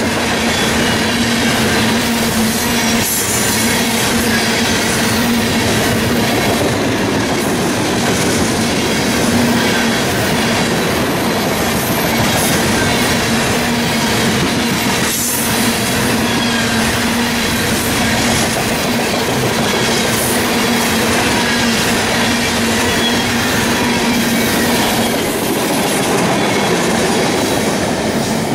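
Freight coal cars rolling past: the steady rumble and rattle of steel wheels on rail, with a steady hum underneath.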